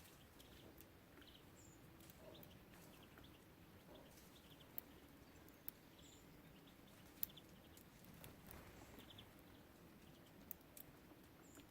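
Faint chirps and twitters of small songbirds at a bird feeder, with a handful of sharp taps and clicks, the loudest a little past the middle.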